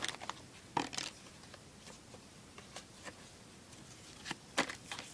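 Baseball trading cards being handled and flipped through, giving a few light clicks and taps, the sharpest about a second in and near the end.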